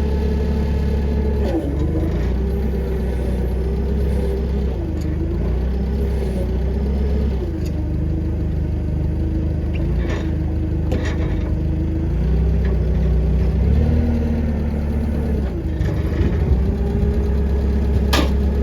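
An engine running steadily, its pitch sagging briefly several times as if put under load and then recovering, with a few sharp metallic knocks, the loudest near the end.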